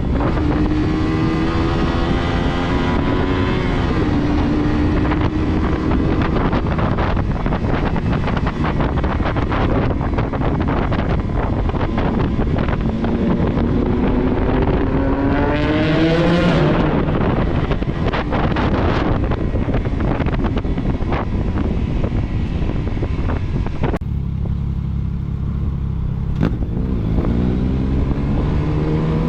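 Motorcycle engine heard while riding, with heavy wind on the microphone; the engine pitch climbs and falls as it accelerates and shifts, rising to a high rev about two-thirds through. Near the end the wind noise drops suddenly and the engine runs low and steady for a couple of seconds, then pitches up again as it pulls away.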